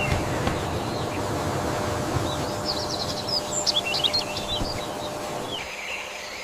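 Birds chirping, a quick cluster of short high calls in the middle, over a steady low rumbling noise that fades near the end.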